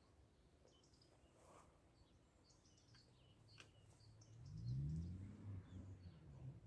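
Faint, scattered chirps of small birds. About four seconds in, a louder low hum starts, rises in pitch, then pulses unevenly.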